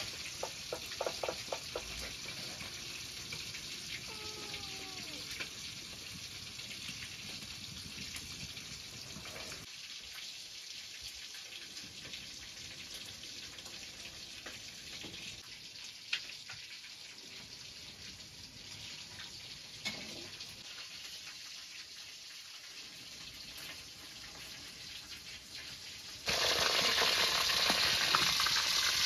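Kitchen cooking sounds: a low steady hiss with a few knocks and clicks, then about 26 seconds in a loud frying sizzle starts abruptly.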